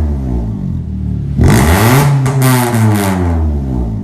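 Honda Civic EP2's four-cylinder engine and exhaust revved in two quick blips, about a second apart, the pitch jumping up and then dropping back toward idle after each.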